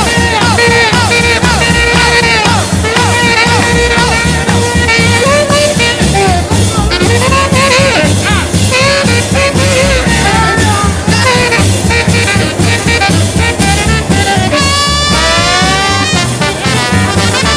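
Upbeat swing jazz instrumental with brass and a steady rhythm section, a wind instrument soloing in bending, sliding phrases.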